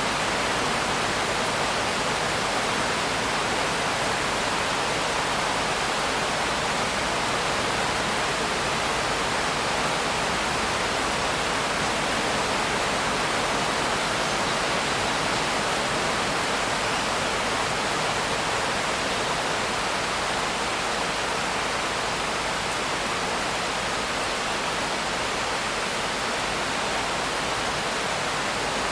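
Steady heavy rain: an even, unbroken hiss with no single drops standing out.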